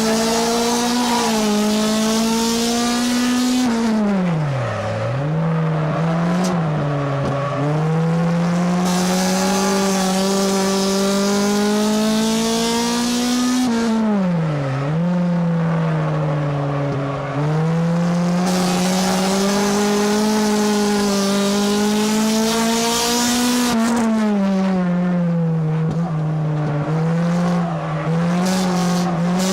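Race car engine heard from inside the car, running hard at high revs. The revs dip and build back up three times, about ten seconds apart, as it lifts off for each turn of the oval track.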